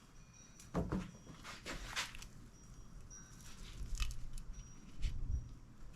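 Scattered light rustles and knocks of coarse twine being wound round and pulled tight around a wooden axe handle.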